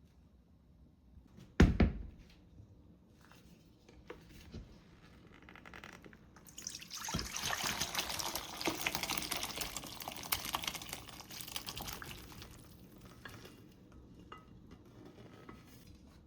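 A single knock about two seconds in, then water running for about five seconds from around six and a half seconds in, tapering off after that, with small clicks and taps around it.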